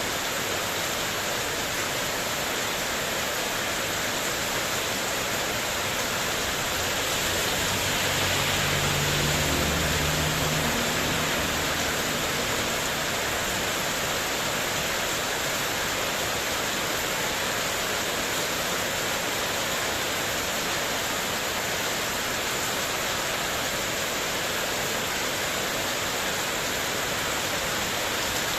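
Heavy rain with strong wind, a dense steady hiss of rain on a spandek metal-sheet terrace roof. It swells a little about a third of the way in, with a brief low rumble.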